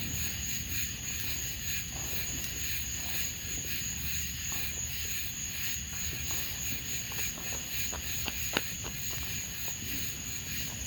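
Steady high-pitched chirring of night insects such as crickets, with a single sharp pop about eight and a half seconds in and a few faint clicks around it.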